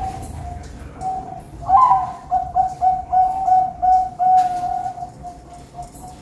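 Zebra dove (perkutut) cooing: a run of coos at one steady pitch, with a louder rising note a little under two seconds in followed by a quick string of short notes, about three a second.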